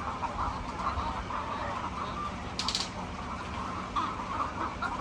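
A flock of hens clucking together in a steady, many-voiced chorus. A brief high scratchy noise comes about two and a half seconds in.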